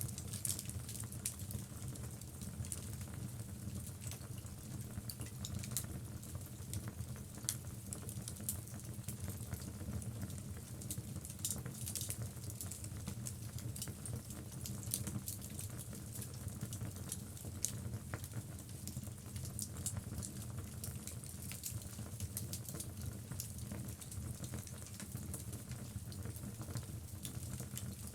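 Wood logs burning in a fireplace: frequent irregular crackles and pops over a steady low rumble.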